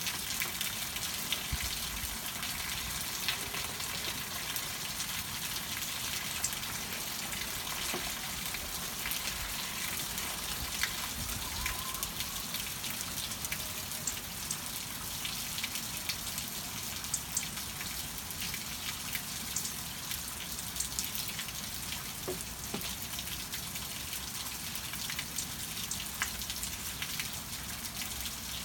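Steady rain falling, a constant hiss with many individual drops ticking close by.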